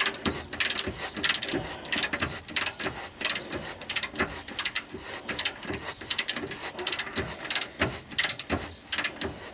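Ratchet wrench clicking in quick runs of short strokes as a bolt is tightened.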